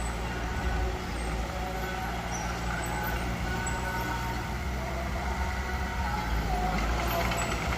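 Diesel engine of heavy earthmoving machinery running steadily under work.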